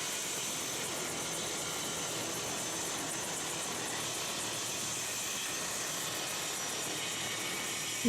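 Helicopter running: a steady, even rush of engine and rotor noise.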